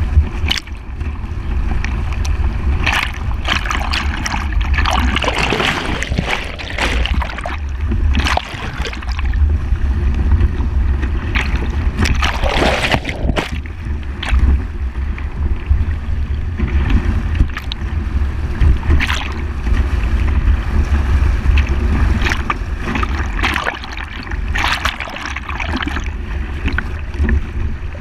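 Toyota FJ Cruiser wading through river water: water splashing and sloshing against the vehicle in repeated irregular surges, over a steady low rumble.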